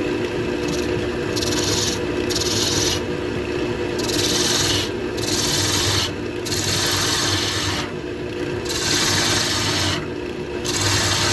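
Wood lathe running with a steady hum while a turning tool cuts the spinning bowl. The hiss of the cut comes and goes in about seven passes.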